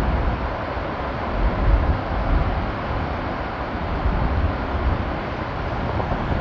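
Roar of a large waterfall in heavy flow after days of monsoon rain, water crashing onto rocks, with spray and wind buffeting the microphone in uneven low rumbles.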